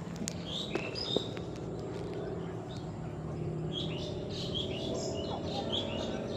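Birds chirping: a few short high chirps in the first second or so, then a quick run of many short high chirps from about halfway through, over a low steady background hum.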